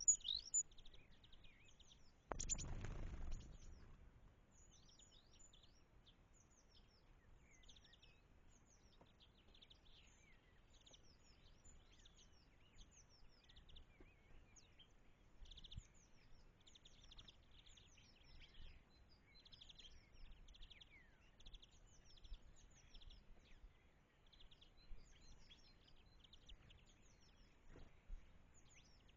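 Faint chorus of small birds chirping and twittering, many short high notes overlapping throughout. About two seconds in, a louder rush of noise lasts about a second.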